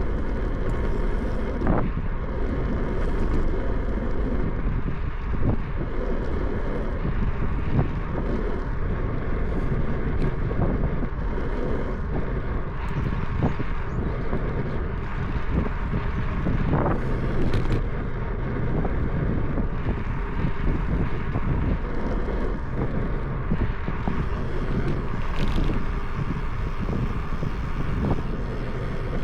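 Wind rushing over the microphone and road noise from a bicycle being ridden, with a few faint clicks and rattles.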